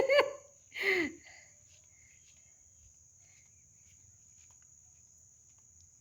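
Two short, loud calls from a person's voice in the first second, then a faint, steady, high-pitched trill of crickets.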